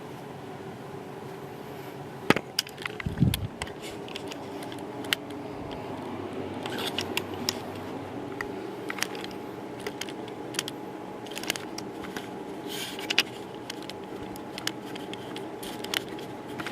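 Camera tripod being set up: scattered sharp clicks and light rattles of its legs and fittings being handled, over a faint steady hum.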